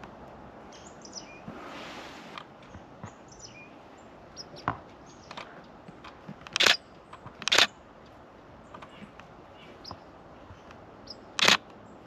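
Faint, high chirps of small birds now and then, broken by a few loud, sharp clicks: one a little before the middle, two close together past the middle, and one near the end.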